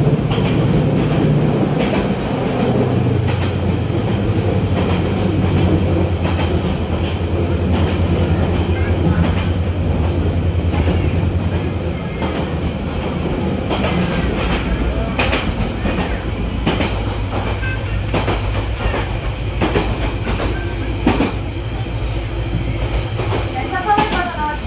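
V-train (Baekdudaegan Canyon Train) passenger train running, heard from inside the carriage: a steady low rumble with wheels clicking over the rail joints at irregular intervals. The rumble drops lower about halfway through.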